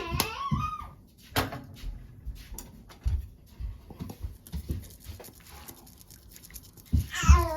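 A baby's high, wavering vocal sounds, once at the start and again near the end, with scattered light clicks and knocks in between.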